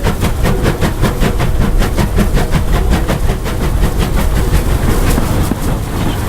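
Steam locomotive working hard, its exhaust beating in a rapid, even rhythm over a low rumble. The beats fade away about four and a half seconds in.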